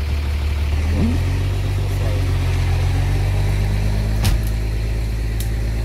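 Vehicle engines running steadily in a low drone that rises in revs about a second in, under load as a small car is pulled out of deep mud; a sharp click comes a little past the four-second mark.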